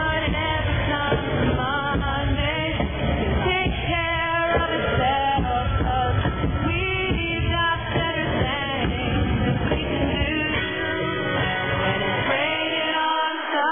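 Live country-rock band music with singing, recorded from the audience and sounding muffled, with nothing in the highs. The bass drops out briefly near the end.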